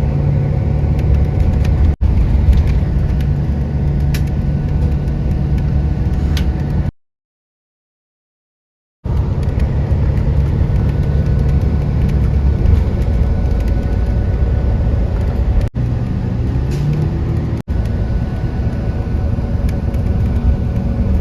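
Steady low engine rumble heard from inside a moving vehicle, with a few steady hum tones. It breaks off into silence for about two seconds partway through.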